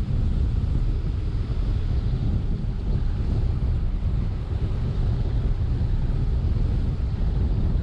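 Steady road and wind noise from a car driving along a highway, a low even rumble with no breaks.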